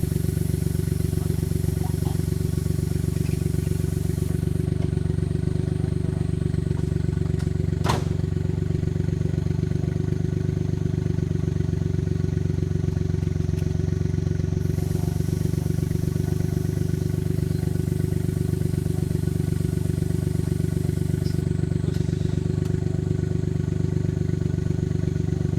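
Engine running at a steady idle, unchanging in pitch, with a single sharp click about eight seconds in.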